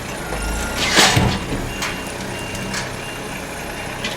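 Heavy machinery engine running steadily, with short faint beeps repeating about twice a second, typical of a reverse alarm, and a brief clatter about a second in.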